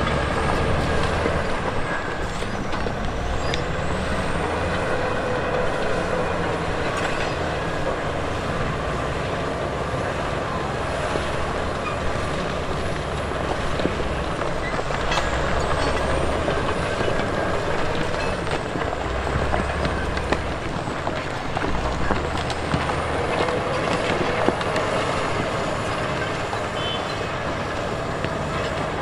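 Heavy diesel earthmoving machinery working: engine running steadily under load, with frequent short knocks and clanks all through.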